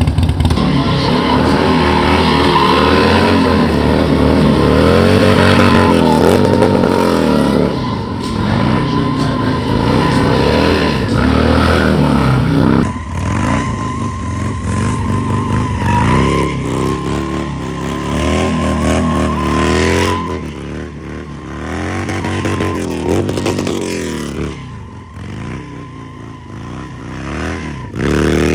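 Motorcycle engines revving, rising and falling in pitch again and again, loudest in the first half and fading somewhat in the last few seconds.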